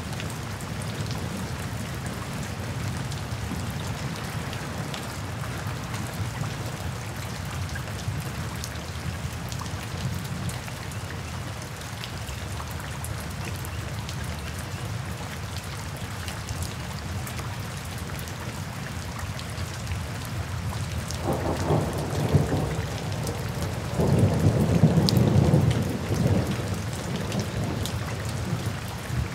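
Steady rain falling on forest foliage, with two low rumbles of thunder in the last third, the second louder and longer than the first.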